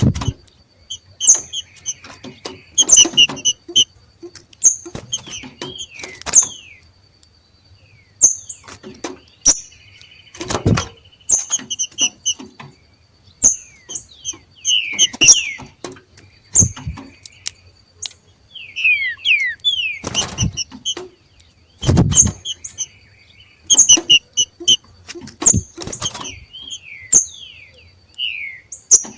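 Two green-winged saltators (trinca-ferro) giving their 'macheado': short, sharp calls and quick falling notes, repeated irregularly every second or two, some with a hard click.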